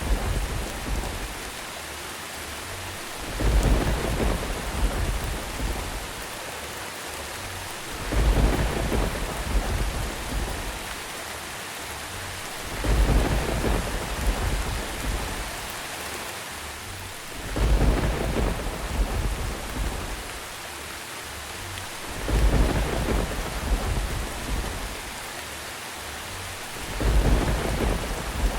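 Steady rain with rolls of thunder: a deep rumble swells up and fades about every four to five seconds, six times, evenly spaced, over the constant hiss of the rain.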